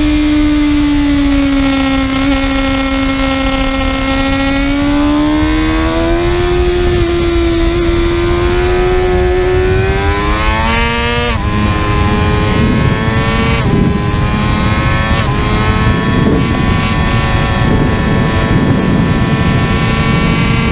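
Kawasaki ZX-6R's inline-four engine at high revs under load. The engine note eases a little, then climbs steadily, drops sharply about eleven seconds in as the bike changes up a gear, and dips briefly twice more on further upshifts before holding steady, over a rush of wind noise.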